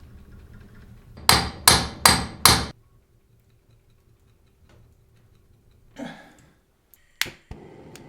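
A hammer striking metal four times in quick succession, each blow ringing briefly. A lighter knock and a sharp click follow a few seconds later.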